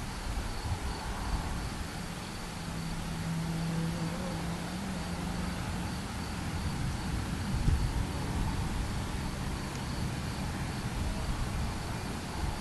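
Crickets chirping in a steady, pulsing trill, over a low rumbling background.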